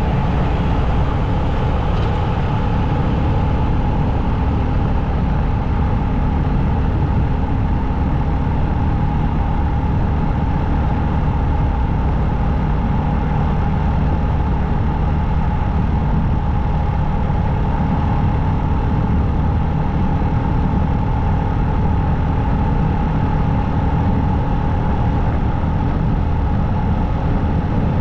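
Motorcycle engine running steadily on the rider's own bike, with a deep rumble and a held mid-pitched tone that stay even throughout.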